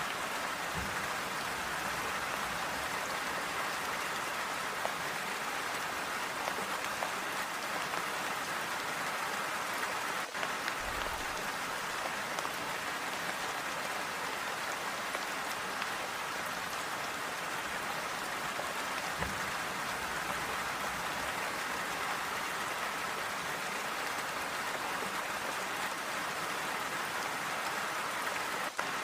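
Steady, calm rainfall: an even, unbroken hiss of many drops, with a few soft low thuds scattered through it.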